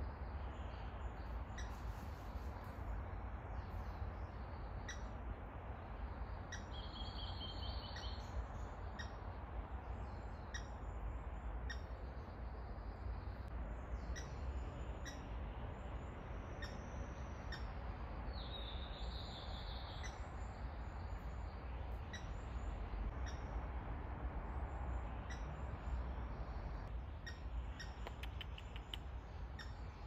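Wild forest birds calling in the tree canopy: short high chip notes repeat about once a second, and twice a brief trilled phrase sounds, about a quarter of the way in and again past the middle. A steady low rumble runs underneath.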